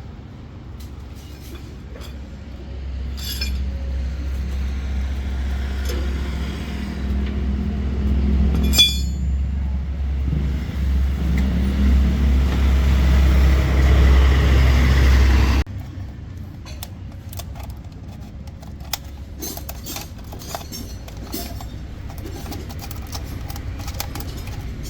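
A steady low engine or motor hum that builds up, gets rougher about 9 seconds in, and cuts off suddenly about 15 seconds in. Light metallic clicks and clinks follow.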